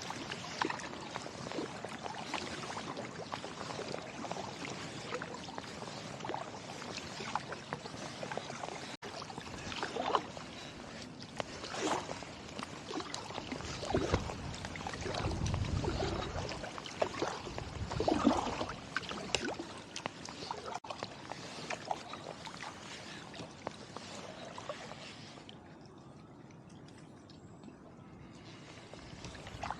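Kayak paddle strokes in river water: irregular splashes and drips from the paddle blades, with a low rumble about halfway through. The strokes let up briefly near the end, leaving quieter water sounds.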